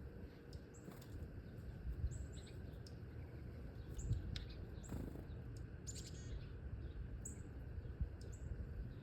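Small wild birds giving short, high chirps, scattered and overlapping, over a steady low rumble.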